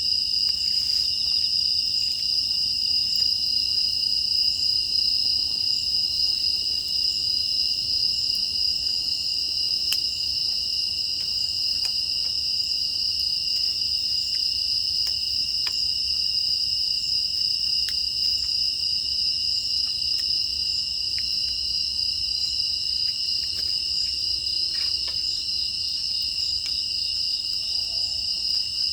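Steady high chirring chorus of crickets and other grass insects, unbroken, with scattered faint crackles from a wood fire.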